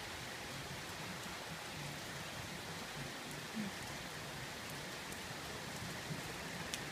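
Steady rain falling on the neighbours' awning and the yard: an even hiss with a few sharper drop ticks now and then.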